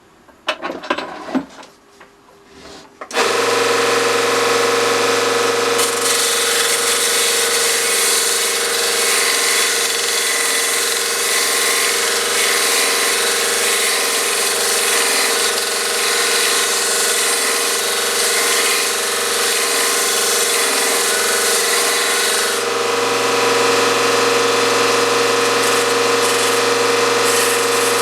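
A small electric bench power tool switched on about three seconds in and running steadily with a hum, working on a piece of thin plywood. Before it starts there are a few light knocks.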